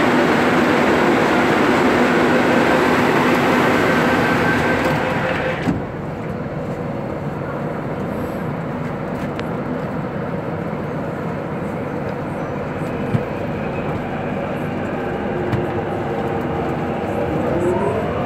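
Hong Kong MTR C-Train running, heard from inside the car. Loud, steady running noise with a few steady tones cuts off abruptly about six seconds in and drops to a quieter hum. Near the end a motor whine rises in pitch as the train accelerates.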